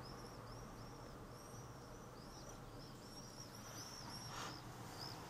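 Faint bird chirping: short, arched high notes repeated a few times a second over a low steady hum, with a brief rustle about four and a half seconds in.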